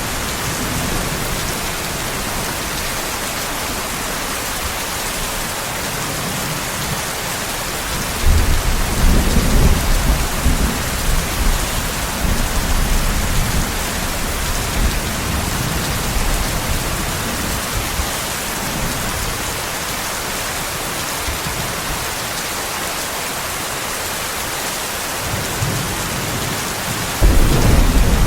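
Steady rain falling, with rolls of thunder: a long rumble building about eight seconds in and fading over several seconds, and a sharper clap near the end.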